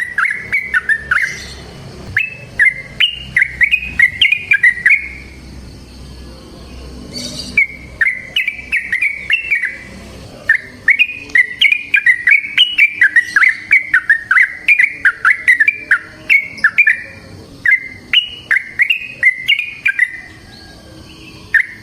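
Yellow-vented bulbul singing in long, fast runs of bubbling, warbling notes, phrase after phrase with short pauses between.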